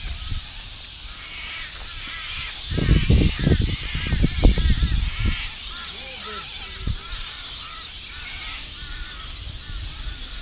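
A flock of birds calling, many short arching chirps overlapping throughout. Loud low rumbles break in from about two and a half to five and a half seconds in.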